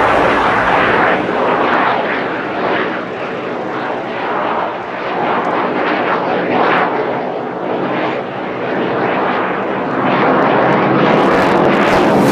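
Fixed-wing aircraft flying over, its engine noise loud and continuous, swelling and fading in waves.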